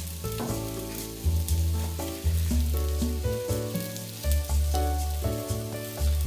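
Sausages and onions sizzling with a fine crackle in the hot pot of a Ninja Speedi air fryer, under light bossa nova background music with a walking bass line.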